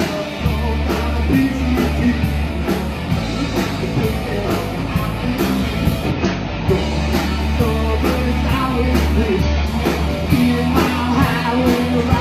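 Live rock band playing the song, with guitar, a bass line and a steady drum beat.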